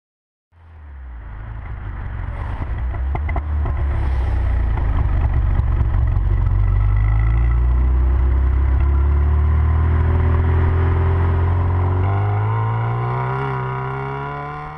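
Classic Mini's engine and exhaust heard from close behind the car while it drives, fading in over the first couple of seconds, then pulling steadily and rising in pitch as it accelerates near the end.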